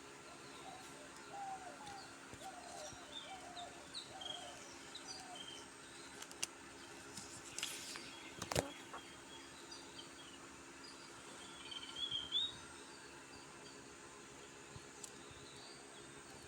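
Caged birds calling in short, scattered high chirps, with a few low warbling calls in the first seconds and one sharp click about halfway through. A faint steady hum sits underneath.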